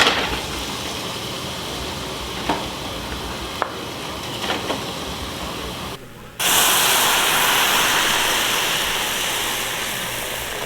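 Food sizzling in a hot pan, with a few light clinks in the first half. About six seconds in, a much louder sizzle starts suddenly and slowly eases off.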